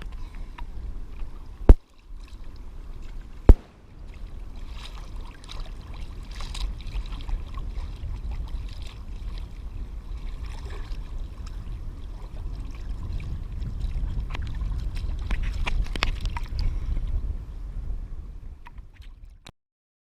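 Water sloshing and gurgling over a steady low rumble, with two sharp clicks about two seconds apart near the start; it cuts off just before the end.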